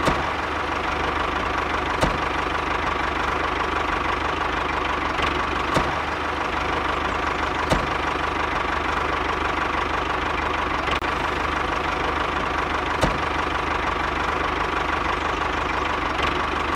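Mini tractor's motor running steadily with a constant whine, broken by a few sharp knocks.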